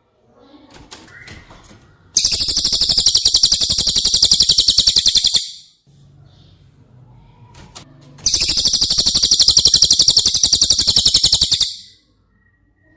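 Cililin singing: two long, fast trills of rapidly repeated high notes, each lasting about three seconds, with soft scattered chirps before, between and after them.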